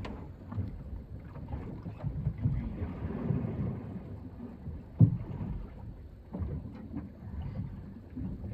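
Low, uneven rumble and scattered knocks from a small fishing boat on the water, with one sharper knock about five seconds in.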